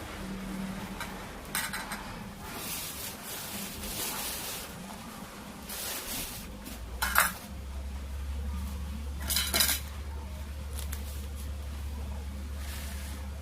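Cutlery clinking and scraping against dishes during a meal, with a few sharp clinks, the loudest two a couple of seconds apart. A low steady hum comes in about halfway through.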